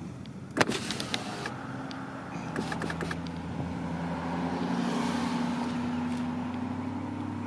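Car engine and tyre noise heard from inside the cabin while driving, the engine note rising a little from the middle on. A single sharp click about half a second in is the loudest sound, and a short run of quick ticks follows near the middle.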